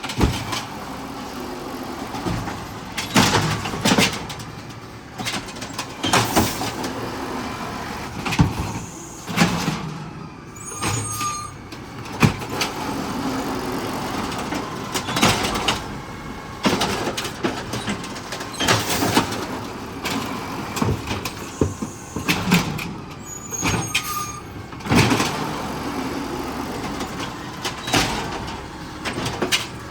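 Garbage truck working on its route: the engine running under a steady rumble, broken by repeated irregular metallic bangs and clanks every second or few.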